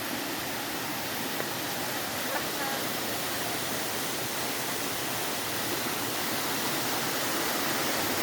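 Stream water rushing over rocks in a steady hiss that grows a little louder toward the end.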